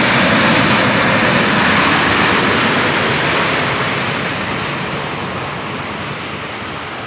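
Engine noise of a passing airliner, loud at first and fading slowly as it moves away.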